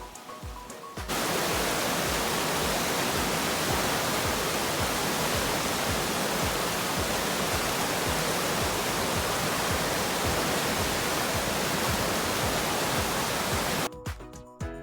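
Loud, steady rushing of floodwater in a swollen river. It starts suddenly about a second in, over a brief stretch of background music, and cuts off near the end as the music comes back.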